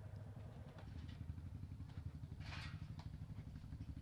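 Motorcycle engine idling, a low, evenly pulsing rumble, with a short faint hiss a little past halfway.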